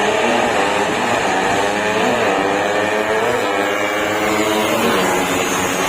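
Suzuki Raider 150's freshly refreshed single-cylinder four-stroke engine being revved, its pitch rising and falling several times.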